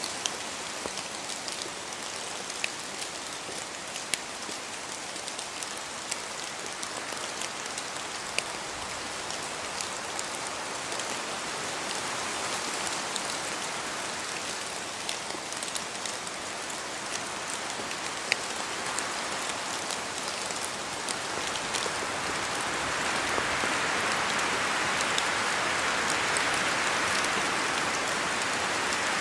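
Steady rain falling in a forest, with scattered sharp ticks of individual drops. The rushing swells louder about three-quarters of the way through.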